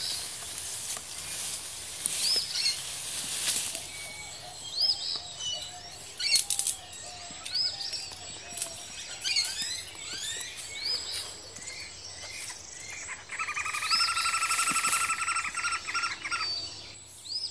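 Forest birds calling: one bird repeats a short arched whistle about every two and a half seconds amid scattered chirps, with a rapid buzzing trill for about three seconds near the end. A couple of sharp clicks sound about six seconds in.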